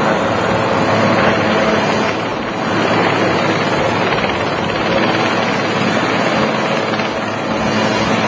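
Helicopter running loud and steady, its rotor noise a dense, even rush.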